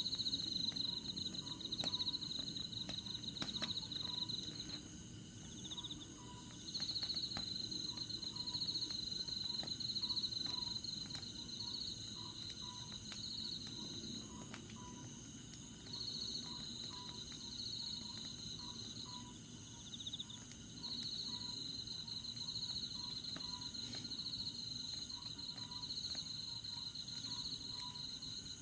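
Night insects calling: crickets in long pulsed trills of several seconds each with short breaks, over a steady high-pitched insect drone. Underneath, a campfire crackles softly with scattered small pops.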